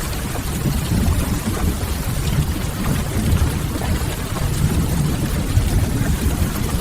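Steady rain with a wood fire crackling, over a deep, even low rumble.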